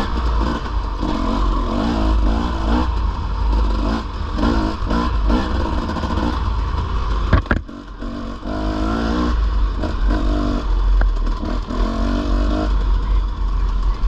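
Dirt bike engine revving and easing off in repeated spells while riding a trail, with a steady low rumble of wind on the microphone. A single sharp knock cuts through about seven seconds in.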